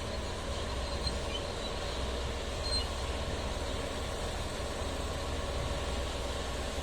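Heavy dump truck's engine running steadily, a continuous low rumble.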